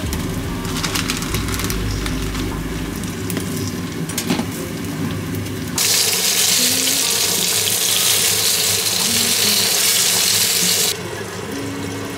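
Karaage (floured chicken pieces) sizzling in a frying pan of hot oil: a loud, steady hiss that starts abruptly about six seconds in and cuts off about five seconds later. Before it come softer kitchen noises with a few clicks.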